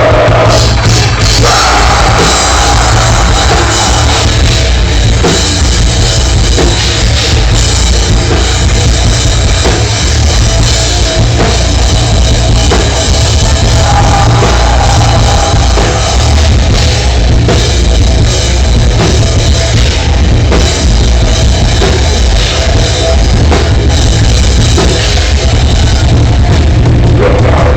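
Loud rock band music with a driving drum kit, played without a break.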